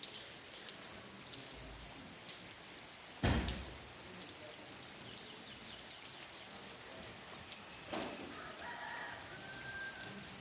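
Steady rain pattering, with a loud thump about three seconds in and a smaller one around eight seconds.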